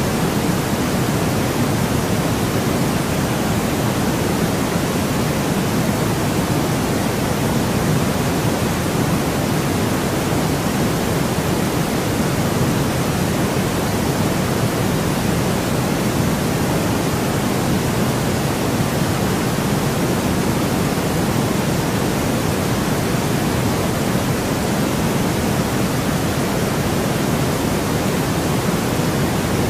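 Steady, unchanging white noise: a constant even hiss, fuller in the low end than the high, with no breaks or changes.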